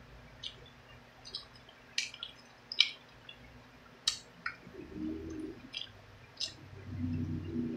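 Close-miked eating: wet mouth clicks and lip smacks while chewing chicken wing meat off the bone, about a dozen sharp smacks at irregular intervals.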